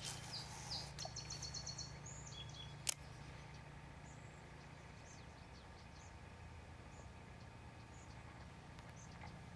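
Wild birds calling: a quick run of repeated high notes and whistles in the first two seconds, then scattered short high chirps. A single sharp click about three seconds in, over a steady low hum.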